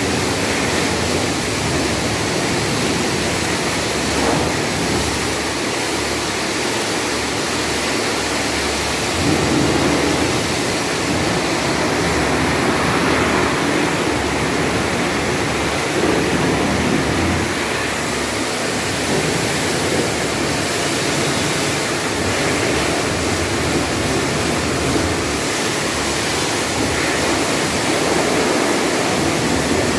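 Steady hiss and splatter of a high-pressure water spray washing down a car's engine bay, rising and falling a little as the jet moves.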